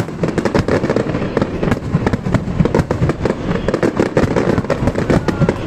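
Fireworks display at full barrage: many aerial shells bursting close together in a rapid, unbroken run of bangs.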